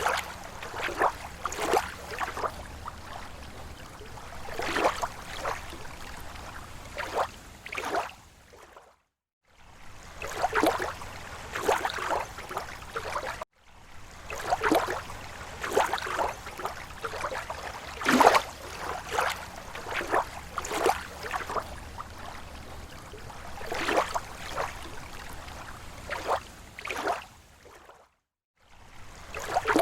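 Small waves lapping against a lake shore: irregular soft splashes every second or so. The sound cuts out to silence briefly three times, about 9, 13 and 28 seconds in.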